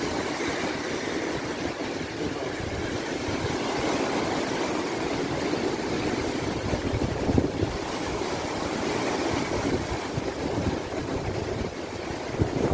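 Storm surf on the sea: waves breaking and rushing in a steady roar, with wind buffeting the microphone and a couple of louder surges about seven and twelve seconds in.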